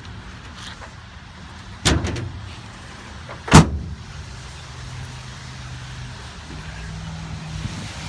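Pickup truck tailgate being worked: a bang about two seconds in as it is handled, then a much louder slam a second and a half later as it is shut.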